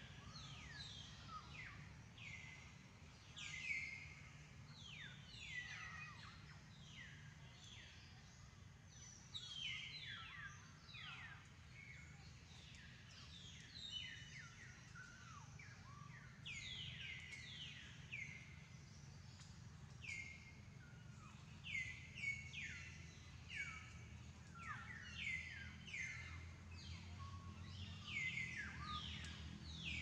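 Birds calling: many short calls, each dropping quickly in pitch, overlapping one another throughout, over a faint steady low hum.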